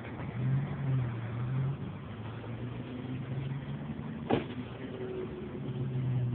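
Low steady hum of motor vehicle engines, coming and going, with one sharp click about four seconds in.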